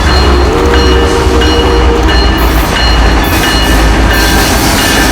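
A train passing close by, loud: a heavy, steady low rumble with a few steady tones coming and going above it.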